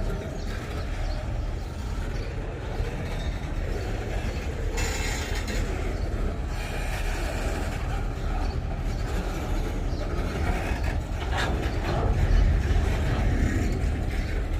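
Freight train rolling past, a steady rumble of wagons on the rails with a few sharp clanks about three quarters of the way through.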